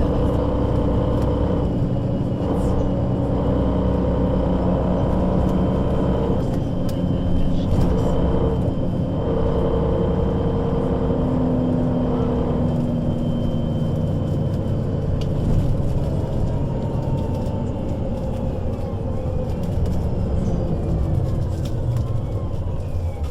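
Solaris Urbino 12 III city bus under way, heard from on board: the engine and Voith automatic gearbox give a steady rumble and whine whose tones shift as the bus changes speed, falling away near the end.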